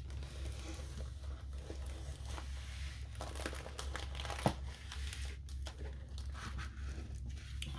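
Plastic packaging of a diamond painting kit crinkling as it is handled, with small clicks throughout and one sharper tap about four and a half seconds in.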